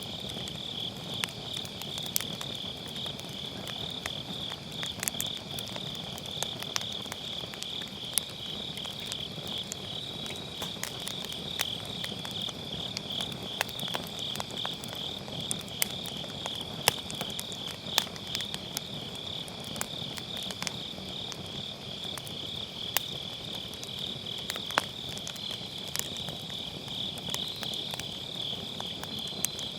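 Grass insects chirping in a steady, high, pulsing chorus, over a firewood fire in a fire pit crackling with irregular sharp pops.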